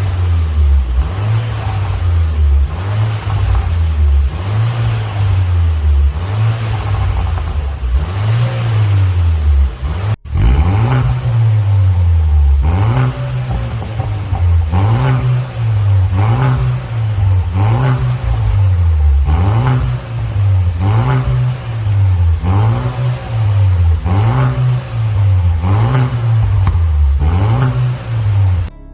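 Chevrolet Malibu 1.5 turbo four-cylinder blipped again and again through a full custom valved exhaust. Each rev rises and drops back, about one blip every second and a half, with a brief break about a third of the way through.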